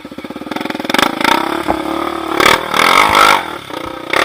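Off-road trail motorcycle engine pulsing at low revs, then revved up and down several times.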